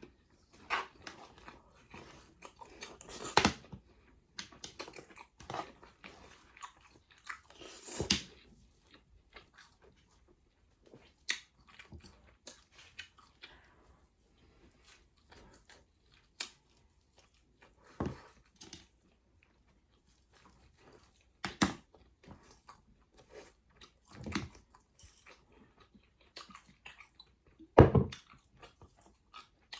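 Close-up eating sounds of a person chewing and biting into whole chicken: irregular wet smacks and crunches, with a few sharp, louder bites scattered through.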